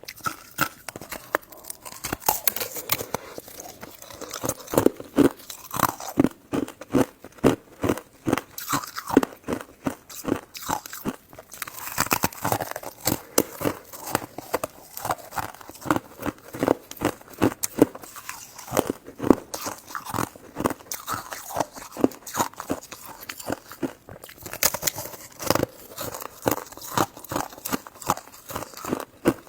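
Close-miked chewing and biting of soft, chewy jelly buns and mochi, a rapid, continuous run of short clicky mouth sounds.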